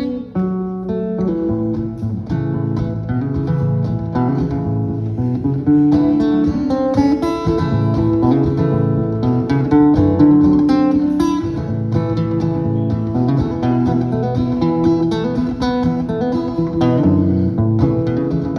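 Acoustic guitar playing an instrumental break between verses of a gentle pop song, picked and strummed chords.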